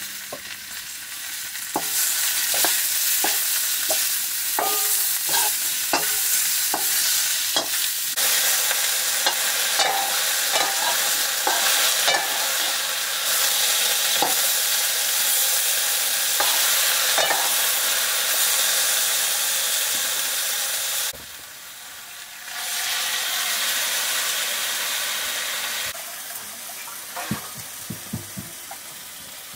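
Chopped potatoes and green cocoyam sizzling loudly in hot oil in a black iron wok, with a metal ladle scraping and clicking against the pan as it stirs. The sizzle jumps up about two seconds in, dips briefly around two-thirds of the way through, and falls away near the end, where a few metal knocks sound.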